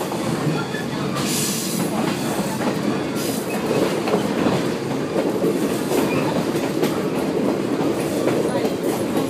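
Inside a vintage passenger coach of a moving train: a steady rumble of wheels on track, with frequent clicks and rattles over the rails and a brief hiss about a second and a half in.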